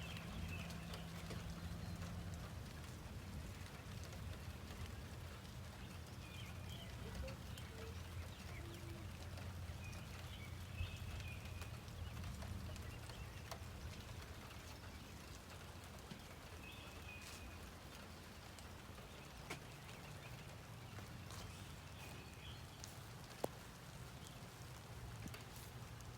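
Light rain with scattered drips and taps, over a steady low hum. Brief high chirps come every few seconds.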